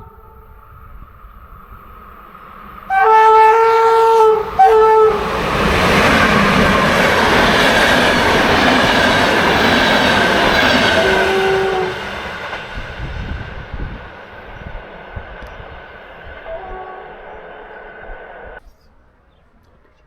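A train's horn sounds in two blasts, a long one and then a short one. The train then passes close by with a loud rushing, rolling noise for about seven seconds. The noise fades to a quieter rumble with a thin steady whine, then cuts off suddenly near the end.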